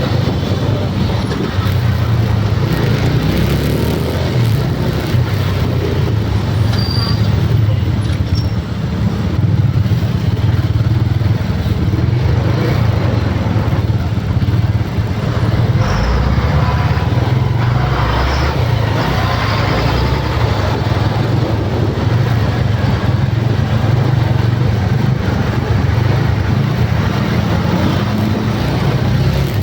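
Steady rumble of a motor vehicle with road noise, loud and unbroken throughout.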